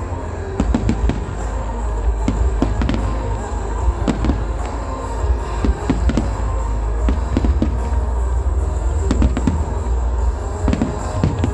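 Aerial fireworks display: shells bursting in rapid, irregular bangs and crackles over a steady low rumble, with music playing alongside.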